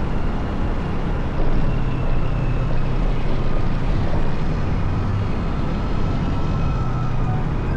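Motorcycle riding at a steady pace: its engine running under a steady rush of road and wind noise, swelling briefly about a second and a half in.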